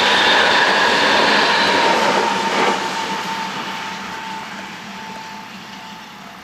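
Electric limited-express train running past at close range with loud rail and running noise, along with the steady ringing of a level-crossing alarm. About two and a half seconds in, the sound cuts to a quieter, more distant train, and the crossing bell fades in broken stretches.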